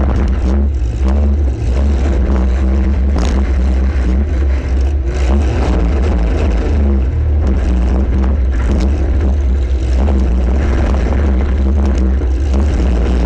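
Compact demolition derby car's engine running hard and revving, loud with a heavy low rumble on the in-car camera, with a sharp knock about three seconds in.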